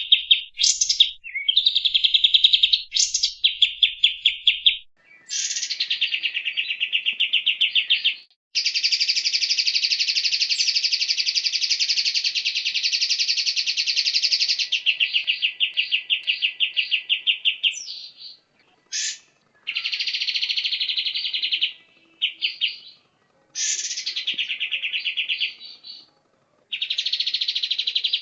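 A songbird singing loud, harsh, rapid trills in bursts, with short pauses between phrases and one long unbroken run of about six seconds in the first half.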